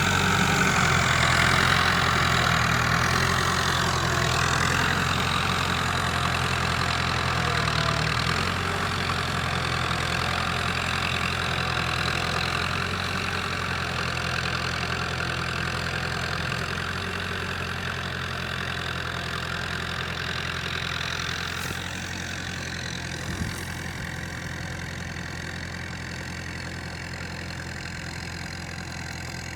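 Massey Ferguson 285 tractor's diesel engine running steadily, growing gradually quieter over about half a minute, with one short knock about 23 seconds in.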